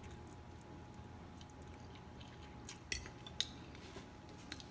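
Quiet chewing of a mouthful of noodles, with a couple of sharp clicks of cutlery about three seconds in.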